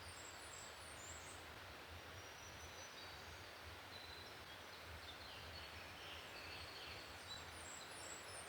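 Faint songbirds singing in quiet woodland: a quick run of short, high chirps near the start and again near the end, with thin high whistled notes between, over a low background hiss.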